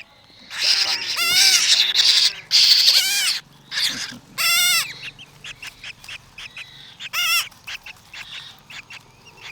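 Hand-fed baby birds begging for food: a run of loud, shrill, wavering calls in the first three seconds or so, then shorter calls and scattered chirps.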